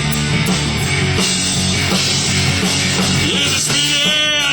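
Rock band playing a loud, full instrumental passage with driving bass and guitars. Near the end a wavering high lead line comes in.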